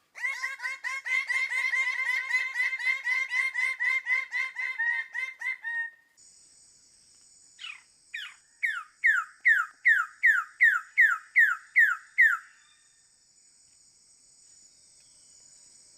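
Bird calls: a rapid run of repeated calls, about four or five a second, stops after about six seconds. A steady high-pitched buzz then sets in, with a bird repeating a falling whistled note about twice a second, ten times or so.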